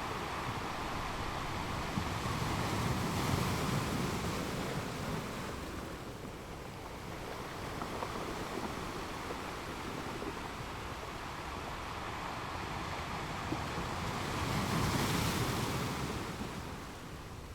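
Ocean waves breaking and washing in, a steady rush of surf that swells twice, about three seconds in and again near the end.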